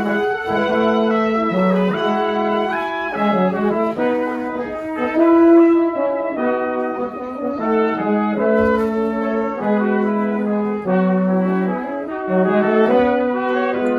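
Brass quartet playing a sustained, chordal instrumental passage, several voices holding and changing notes together.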